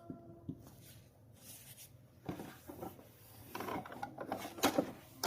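Hands working on a sewing machine during cleaning: light rubbing and scraping with scattered small clicks of parts, the sharpest clicks coming near the end.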